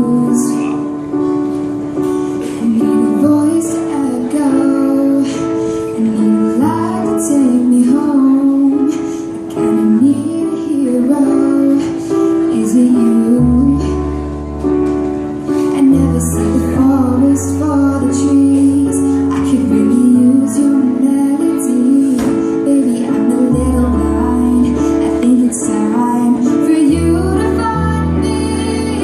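A woman singing a slow pop song over instrumental accompaniment. A low bass line comes in about halfway and recurs near the end.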